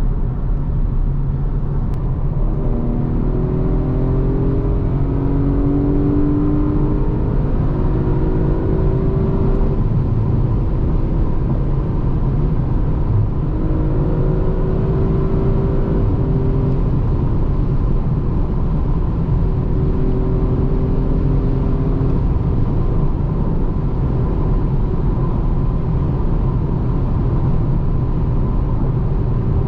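Audi RS5's 2.9-litre twin-turbo V6 under acceleration, its pitch climbing in several long pulls over a steady low rumble of road and engine noise.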